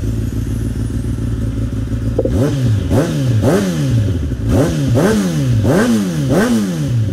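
Kawasaki Ninja inline-four sport bike engine idling, then revved in a rapid string of quick throttle blips, about two a second, each rising sharply and dropping straight back.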